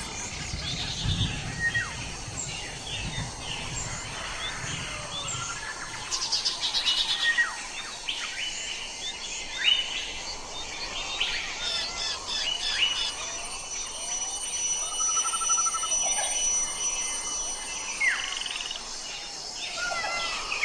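Several wild birds chirping and calling in a forest chorus, many short, varied calls overlapping, with a fast, louder trill about six seconds in.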